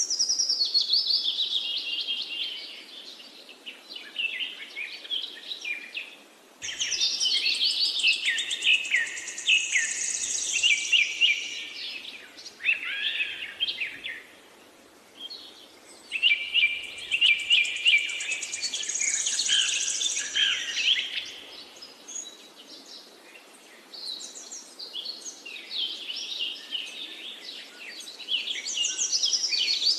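Birds chirping and singing in busy bursts of a few seconds, with short lulls between.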